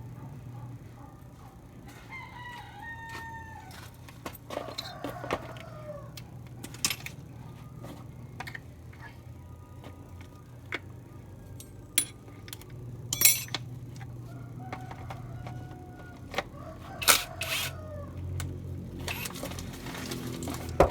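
A rooster crowing several times in the background, over a steady low hum. Several sharp clicks and knocks break through, the loudest about 13 and 17 seconds in.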